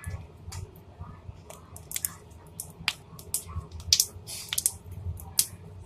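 Slime being squished and stretched by hand, making a string of irregular sharp pops and wet clicks as air pockets burst.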